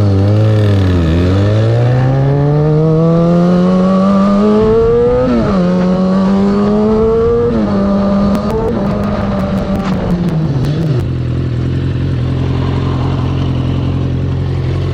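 Kawasaki ZX-6R's inline-four engine accelerating, its pitch climbing and dropping back at two upshifts about five and seven and a half seconds in. About eleven seconds in the engine note falls away, leaving a steady low drone.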